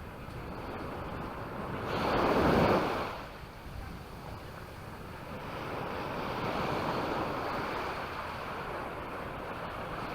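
Sea waves washing onto a sandy beach: one louder surge of surf about two seconds in, then a longer, gentler wash.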